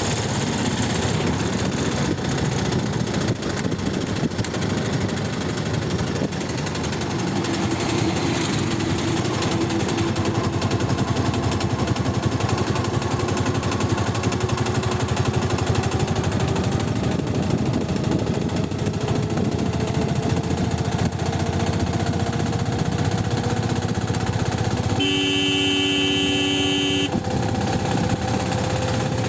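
A motor vehicle running on a road, with an engine note that slowly rises in pitch. A horn sounds once for about two seconds near the end.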